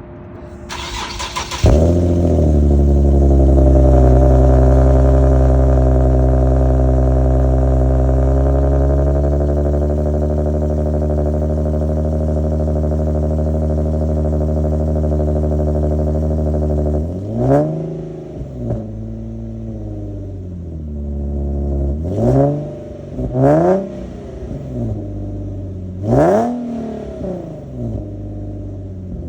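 2009 Infiniti G37's 3.7-litre V6 with a modified exhaust, cold-started: the starter cranks briefly, the engine catches and settles into a high cold-start idle that slowly eases down. Later it is revved in four short throttle blips, each rising and falling back to idle.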